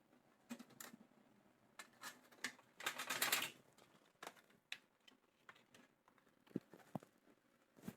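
Faint scattered clicks and taps of small parts and tools being handled, with a brief rustle about three seconds in.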